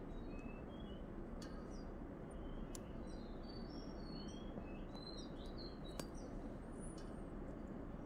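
Small songbirds chirping: many short, high-pitched chirps and whistled notes scattered through, over a steady low outdoor background noise, with a sharp click about six seconds in.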